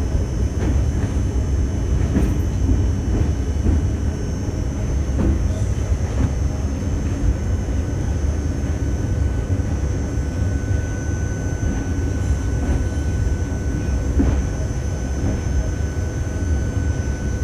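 Train running, with a steady low rumble and a few scattered knocks. A faint steady whine joins it about ten seconds in.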